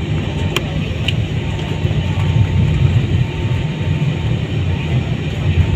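Steady low rumble inside a passenger airliner's cabin, the noise of the plane moving on or near the ground around landing, with two light clicks about half a second and a second in.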